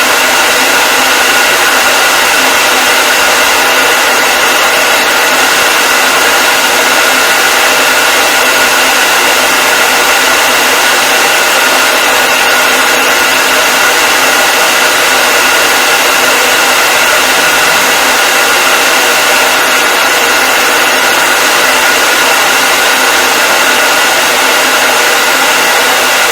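Hair dryer running continuously: a steady, even hiss of blown air with a constant whine from the motor and fan.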